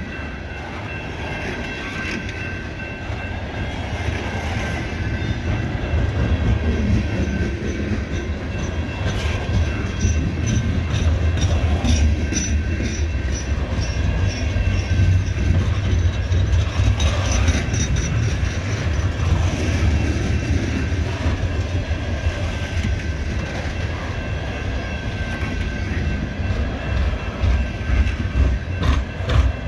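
Loaded coal hopper cars of a CSX freight train rolling steadily past: a heavy low rumble of steel wheels on rail, with a thin steady high tone over it. Wheel clacks over the rail joints grow louder and quicker near the end.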